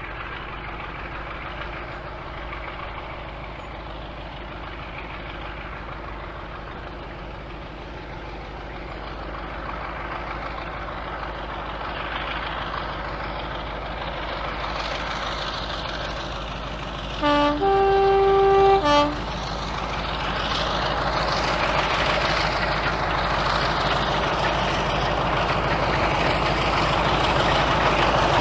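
Diesel locomotive engine running and gradually getting louder, with a horn sounding about two-thirds of the way in: a short lower note, a longer higher note, then a short lower note again.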